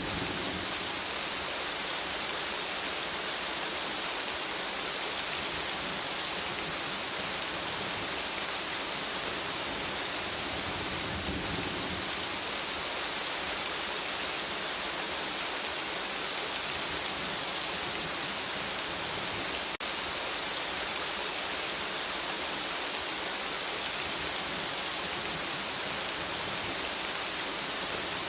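Steady rain falling on forest foliage, an even hiss with no let-up.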